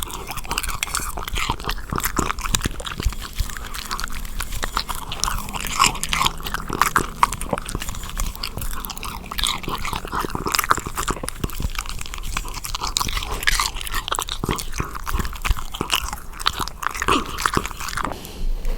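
Close-miked chewing and biting of fresh strawberries dipped in chocolate and yogurt cream: a steady run of wet, crunchy bites and chews that stops just before the end.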